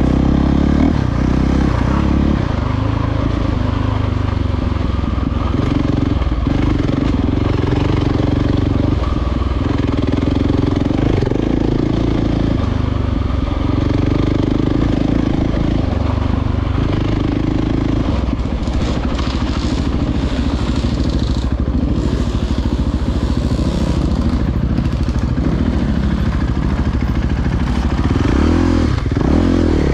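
Dirt bike engine running under load on a trail ride, its note rising and falling in steps with throttle and gear changes.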